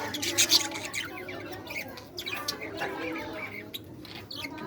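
Budgies chirping, squawking and chattering, with a burst of sharp, loud calls about half a second in.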